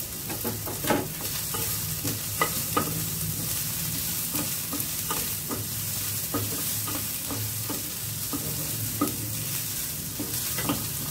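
Chopped onions and green chillies sizzling steadily in oil in a nonstick frying pan, with a spatula stirring and scraping through them and knocking against the pan in many short clicks.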